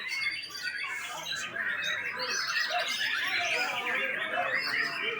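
White-rumped shama (murai batu) singing a continuous, fast, varied song of warbles, trills and squawky notes.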